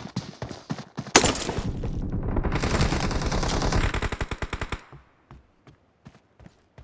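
Video-game automatic gunfire: a sharp shot about a second in, then rapid continuous fire until about five seconds, followed by a few faint scattered shots.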